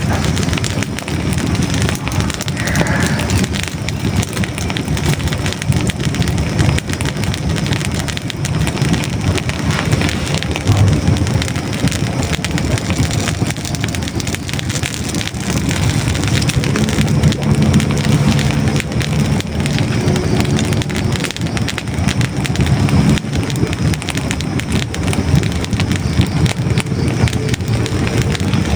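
Hardwood logs burning in a fireplace: a continuous dense crackle of small pops and snaps over a low rush of flame.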